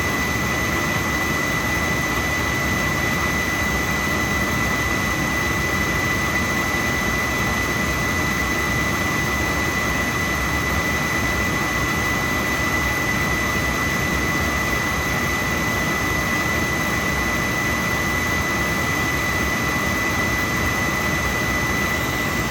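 Old oil-fired boiler's burner running steadily: a constant rushing noise from the blower and flame with a thin, steady high whine over it.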